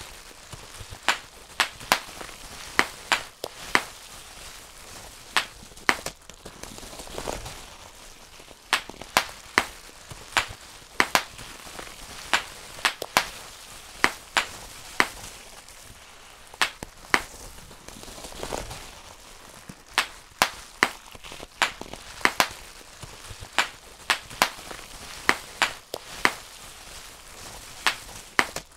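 Bubble wrap bubbles popped one at a time by hand: sharp snaps at an irregular pace of about one or two a second.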